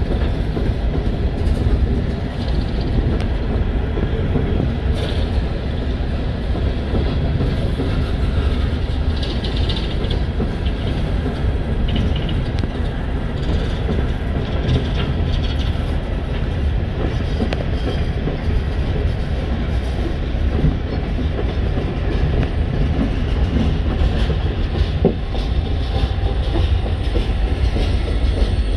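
Empty open-top hopper cars of a long freight train rolling past, their steel wheels making a steady rumble on the rails.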